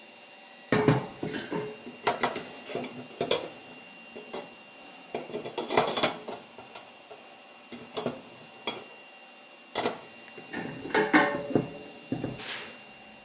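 Metal parts of a Feuerhand Baby Special 276 hurricane lantern being handled: irregular clinks and knocks in clusters, a few ringing briefly.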